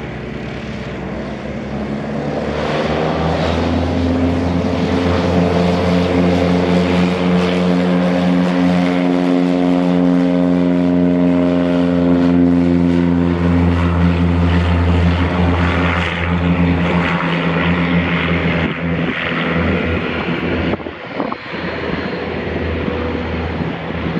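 Propeller airplane's engine and propeller droning as it passes, building up over the first few seconds and holding strong before easing off near the end, the pitch sinking slightly as it goes by.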